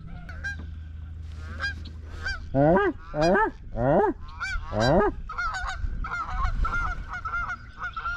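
Geese honking: four loud honks in the middle, then a run of quicker, higher calls.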